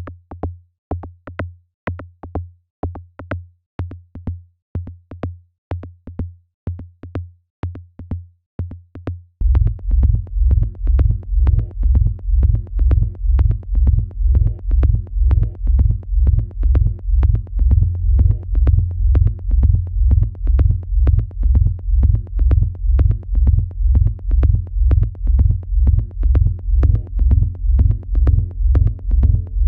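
Electronic dance music playing back from a production session: a looping kick drum pattern at about two hits a second plays alone at first. About nine seconds in, a heavy sustained bass comes in under it, with quiet higher synth notes on top.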